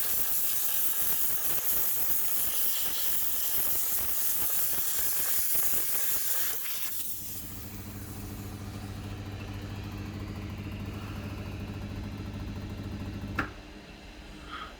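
Steam cleaner jetting steam onto a heat pump dryer's condenser coil: a steady loud hiss that cuts off suddenly about seven seconds in. A quieter steady low hum follows and ends with a sharp click near the end.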